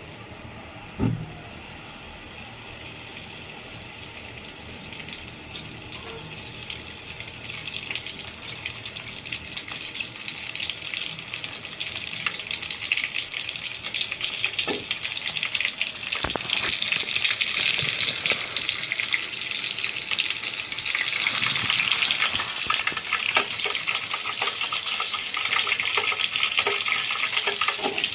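Food sizzling in hot oil in a pan. The sizzle grows louder over the first half and then stays steady, with a single low knock about a second in and a few faint clicks of stirring.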